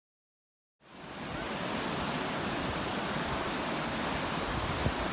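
Steady wash of ocean surf on a beach, fading in about a second in after silence.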